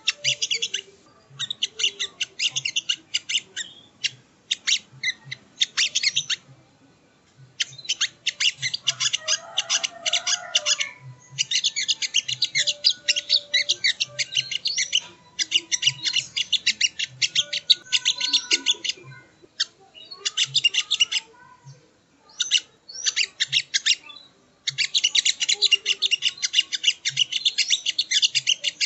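Sogok ontong (songon) bird singing a rapid, high-pitched chattering song in runs of a few seconds with short pauses between. This is the song used as a lure to rouse other birds of its kind.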